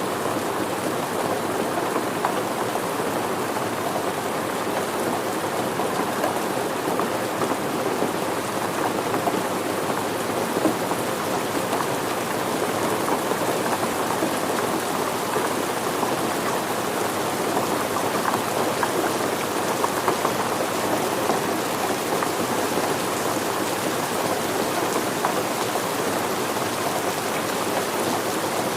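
Steady rain falling, with dense patter of drops hitting surfaces.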